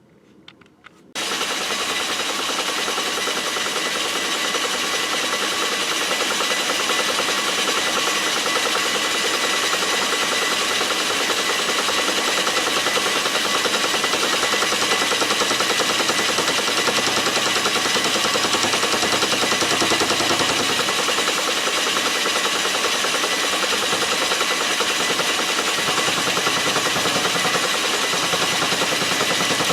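Metal lathe switched on about a second in, then running steadily with a dense mechanical rattle while turning down a part.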